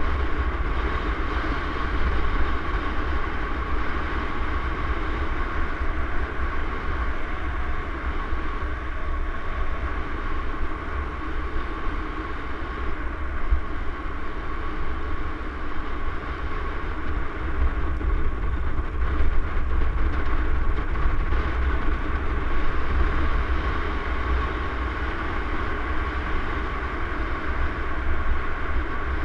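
Mountain bike riding along a trail: steady rattling and tyre noise under a heavy, continuous low rumble.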